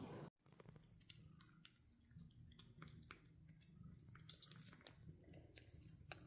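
Faint, irregular small clicks and crackles, scattered unevenly, over a low background hum.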